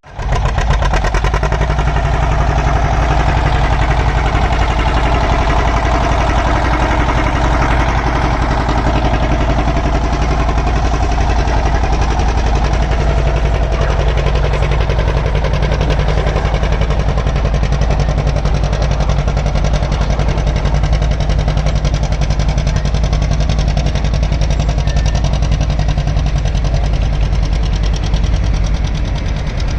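Vintage farm tractor engine running steadily and hard under load while pulling a weight-transfer sled in a tractor pull, its exhaust pulsing fast and even.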